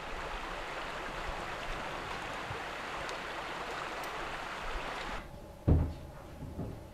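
Steady outdoor background hiss with no distinct events, then a quieter room and a single short, low thump a little before the end.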